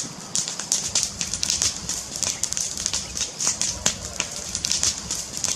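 Fire crackling: a dense run of irregular pops and snaps over a steady low rumble.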